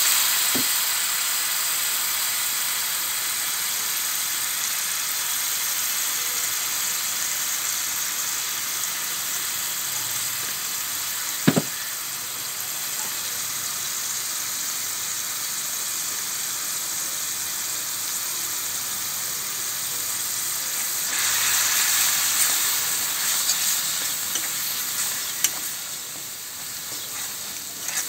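Onion-tomato masala sizzling steadily in hot oil in a metal kadai. There is one sharp tap about midway, the sizzle swells about three-quarters through, and a metal spatula scrapes and clicks against the pan near the end.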